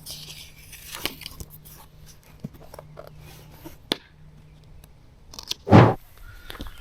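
Close handling noises: scattered clicks, crinkles and rustles, then one loud thump nearly six seconds in.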